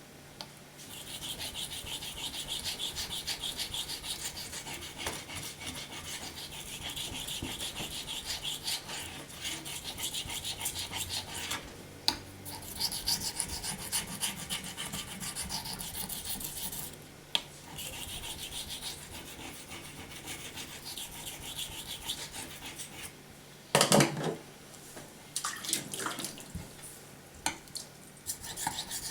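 Steel knife blade stroked back and forth on a wet waterstone: a steady run of rasping sharpening strokes broken by a few short pauses. A single brief louder knock comes about five seconds before the end.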